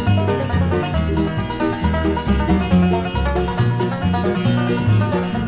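Bluegrass band playing an instrumental passage without singing: banjo and guitar over a bass line that moves from note to note.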